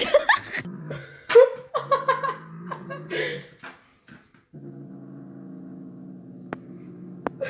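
A dog vocalizing: a run of short, varied yelps and whines, then a long, steady low growl lasting about three seconds.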